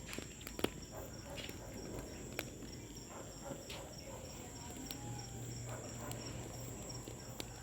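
Wood bonfire crackling with irregular sharp pops, over a steady high chirring of crickets. A low hum sets in about five seconds in.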